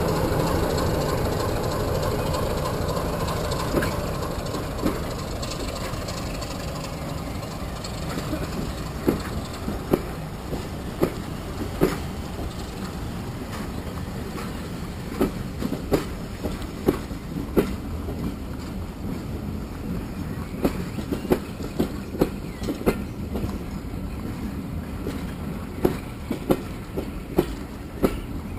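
Diesel-hauled passenger train passing at low speed. The locomotive's engine rumble fades over the first several seconds, then the coach wheels click over the rail joints, often in close pairs, every second or so over a steady rolling rumble.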